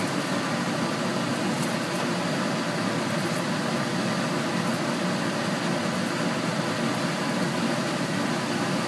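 Steady whirring fan noise running without change.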